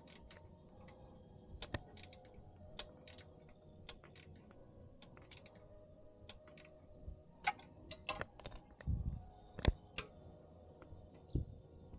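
Irregular light clicks and taps of small parts and tools being handled while working on a motorcycle, with a dull thump and a sharper click about nine to ten seconds in.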